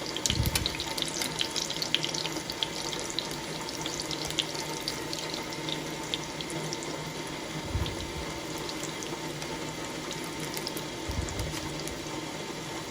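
Sardine fritters sizzling and crackling as they shallow-fry in hot oil, a dense spatter of small pops over a steady hiss, busiest in the first few seconds. There are a few dull low thumps, about half a second in, near 8 seconds and near 11 seconds.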